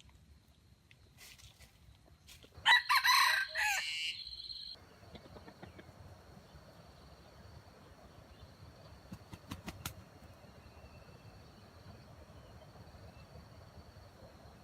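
A rooster crows once, loud, about three seconds in, lasting about two seconds and cutting off sharply.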